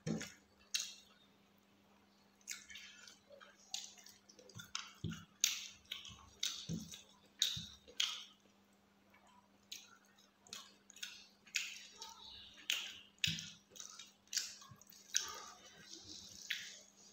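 Close-miked wet chewing, lip smacks and squelches of someone eating rice and curry by hand, coming as short irregular bursts a few times a second. A faint steady low hum lies underneath.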